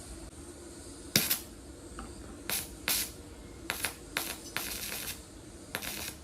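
TIG (argon-arc) welding torch firing in short spurts: about seven brief hisses of arc and argon gas, the longest about half a second, as the welder is tried on the camper's inverter power.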